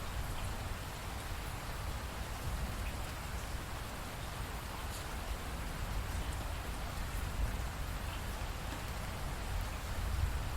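Steady rain falling, a constant even hiss with a low rumble and scattered drop ticks.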